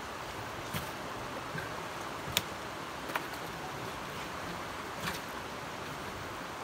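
Steady rushing of river water, with four short sharp clicks or knocks spread through, the loudest about two and a half seconds in.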